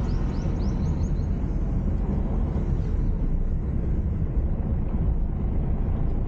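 Steady low rumble of a car driving along, engine and road noise, with a few short bird chirps in the first second.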